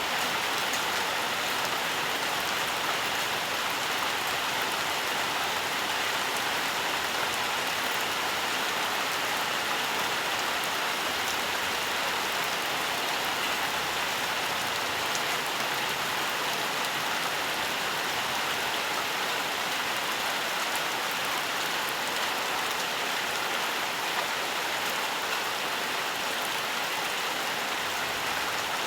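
Steady rainfall, an even hiss of rain with scattered drops pattering on leaves and surfaces.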